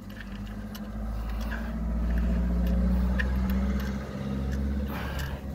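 A motor vehicle's engine running with a steady low hum, growing louder about a second in and easing off near the end.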